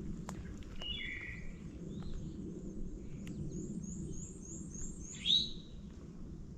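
Songbirds calling in the woods: a couple of notes about a second in, a quick run of high thin notes partway through, and a louder sweeping chirp near the end. A steady low rumble and a few faint clicks run underneath.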